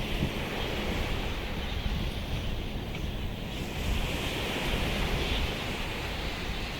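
Surf washing ashore, with wind buffeting the microphone in a steady low rumble.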